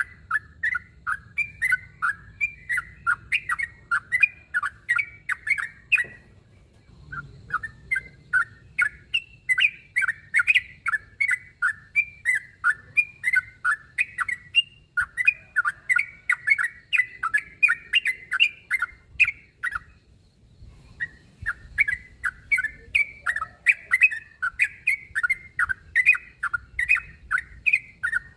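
Yellow-vented bulbul (trucukan) giving its challenge call to a rival: a continuous run of short chattering notes, about two to three a second. The phrases break briefly about six seconds in and again about twenty seconds in.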